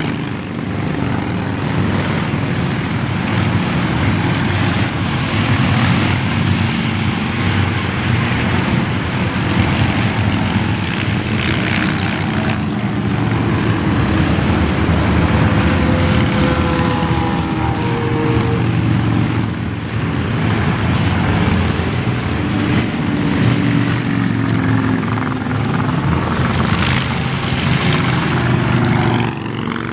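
A long stream of motorcycles passing on an interstate: a continuous, loud drone of many engines together, with single bikes' notes now and then sliding down in pitch as they go by.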